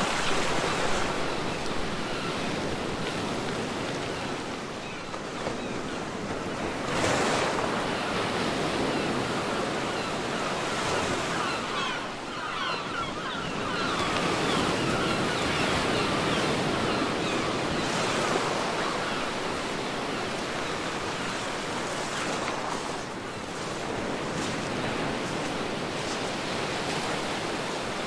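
Ocean waves breaking and washing on a beach, a steady surf hiss that swells with each wave, most strongly about 7 seconds in and again in the middle.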